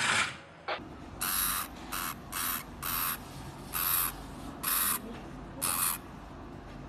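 An animal hissing in a series of short, sharp hisses, roughly one a second, each lasting well under half a second.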